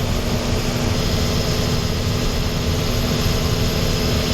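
Diesel truck running steadily at cruising speed, its engine drone and road noise even throughout, with a steady low hum over the rumble.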